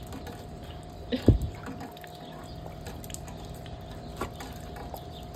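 Rainwater running and dripping steadily, with scattered small drips and one dull thump about a second in.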